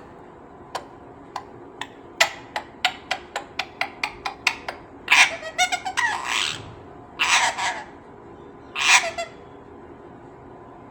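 Green parrot screeching: three harsh calls, the first the longest, after a run of sharp clicks that quicken over the first few seconds.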